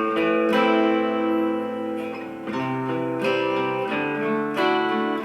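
Music from a film trailer soundtrack, with held guitar-like chords that change every two seconds or so, played back through a Bluetooth outdoor speaker.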